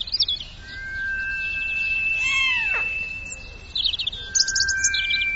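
High, quick chirping squeaks in short clusters, and one falling kitten mew a little past two seconds in, over held steady background music tones.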